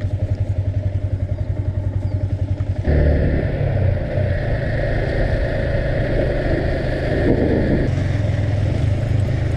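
Motorcycle engine puttering at low revs, then about three seconds in the throttle opens and it runs louder under load as the bike heads uphill, with wind and road noise.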